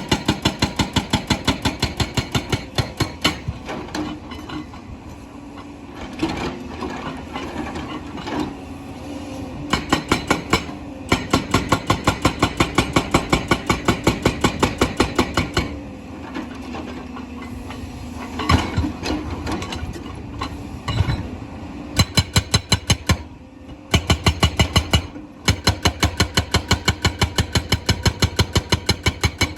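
Hydraulic rock breaker on a JCB excavator hammering at stone in several runs of rapid, evenly spaced blows, about five or six a second. Between the runs the excavator's diesel engine keeps running.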